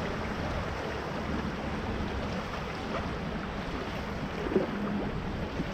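Steady rush of river water flowing around a raft, with a brief louder blip about four and a half seconds in.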